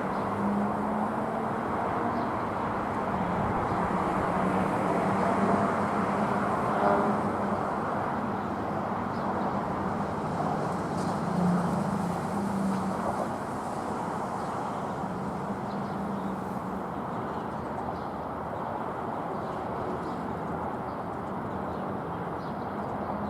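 Jet airliner engines heard from a distance: a steady rumble with a low wavering hum, easing slightly about halfway through.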